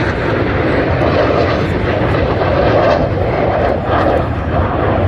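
Jet engines of Blue Angels F/A-18 Super Hornets flying past, a loud, steady rushing noise.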